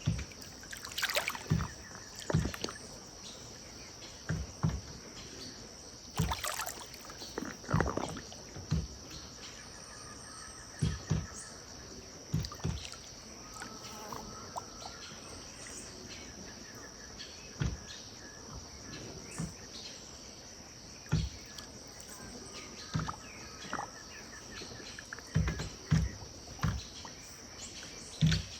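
River water lapping and sloshing at the bank in irregular small splashes and low thumps, over a steady high-pitched insect chorus, with a few faint bird calls.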